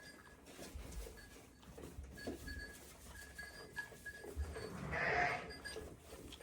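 A sheep bleats once, loudly, about five seconds in, over faint low rustling from the flock.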